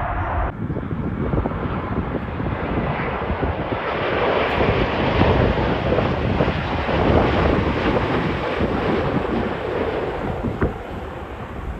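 Jet airliner's engines as the plane passes, a broad rumbling roar that swells to its loudest midway and eases off near the end, with wind buffeting the microphone.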